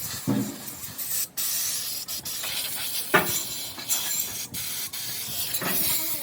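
A high-pressure cleaning jet hissing steadily, cut off briefly twice, with a few dull knocks.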